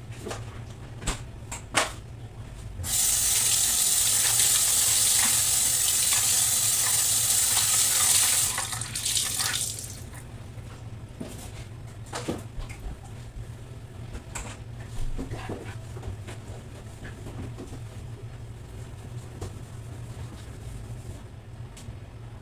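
Water tap running into a sink, a steady rush lasting about six seconds that sputters out as it is turned off. Scattered clicks and knocks of handled items come before and after it, over a low steady hum.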